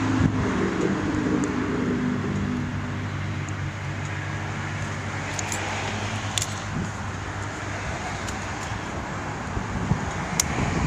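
2004 Yamaha Road Star 1700's air-cooled V-twin running through Long Shot aftermarket exhaust pipes, a low note that is not too loud. It runs a little higher and louder for the first couple of seconds, then settles to a steady beat.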